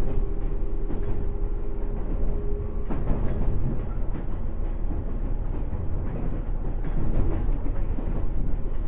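JR East 107 series electric train running, heard from inside the car: a steady rumble of wheels on rail with a hum tone that stops about three seconds in.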